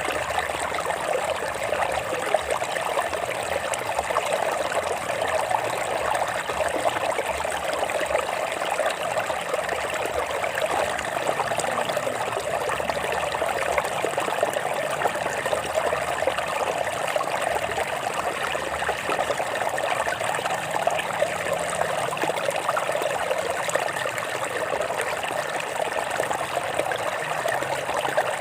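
Water flowing and trickling over rocks in a stream, a steady splashing rush.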